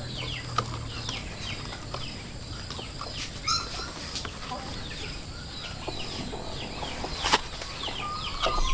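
Chicks peeping: a steady run of short falling peeps, several a second, with a sharp click about seven seconds in.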